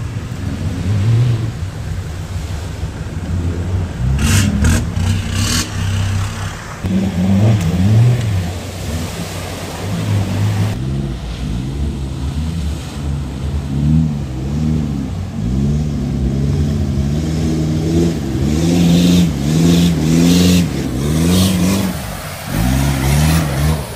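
A 4x4's engine revs up and falls back again and again as it works the vehicle along an off-road trail. There are short bursts of clatter about four seconds in and again near the end.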